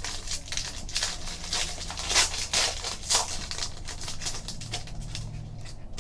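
Trading-card pack being opened and its cards handled: a run of quick rustling swishes and crinkles.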